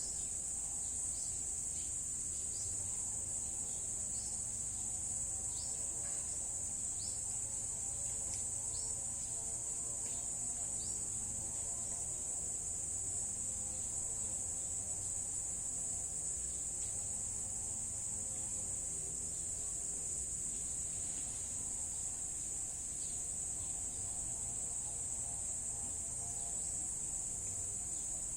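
A continuous high-pitched insect drone, steady and unbroken, with a series of short descending chirps in roughly the first ten seconds.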